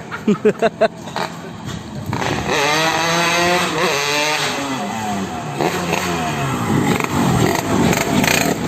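Yamaha RX-King two-stroke single-cylinder engine revved through a new custom exhaust: four quick throttle blips in the first second, then longer revs rising and falling.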